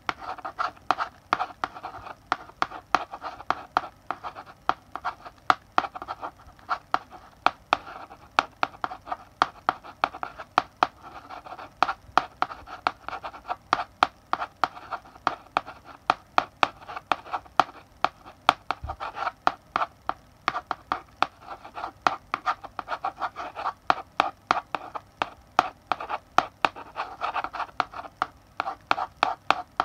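Chalk writing on a blackboard: continuous scratching strokes broken by frequent sharp taps as the chalk strikes the board, several a second.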